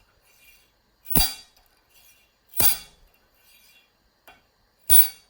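A stack of coins dropped from about a metre onto an undamped 18 mm board, three times: once about a second in, again a second and a half later, and near the end. Each drop lands as a sharp metallic clink over a thud from the board. This is a scale model of gym weight plates striking an unsprung floor.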